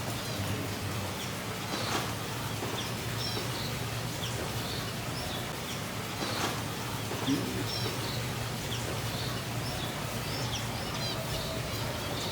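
Many small birds chirping and calling in an indoor aviary, short high chirps coming every second or so, over a steady low hum.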